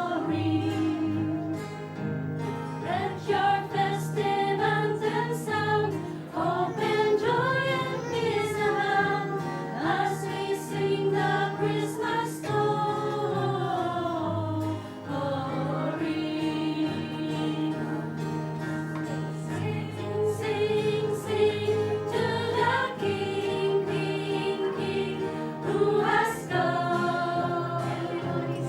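A group of amateur singers singing an uplifting Christmas worship song together, over steady chords from the acoustic guitars of a beginner guitar class.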